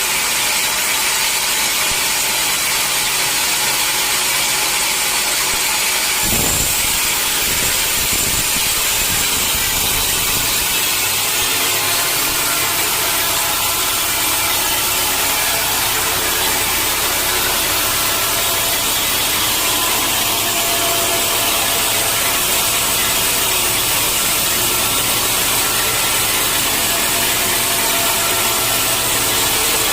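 Sawmill machinery running, with a saw cutting through wood in a steady, loud, hissing din. The machine's sound shifts about six seconds in, and a steady low hum settles in a few seconds later.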